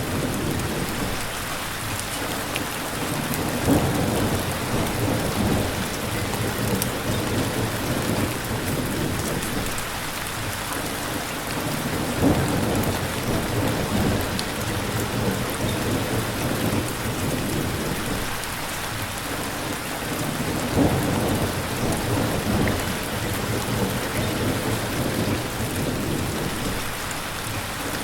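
Steady heavy rain hissing. Low rumbling swells rise and fall about every eight to nine seconds, each peaking in a brief sharp jump in loudness.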